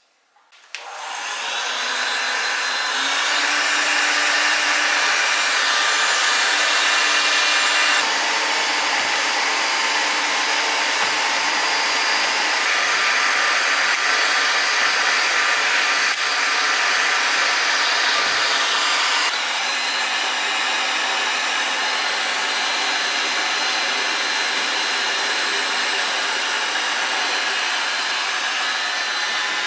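An electric power tool with a motor and fan switched on about a second in, running steadily with a whirring hiss that shifts slightly twice.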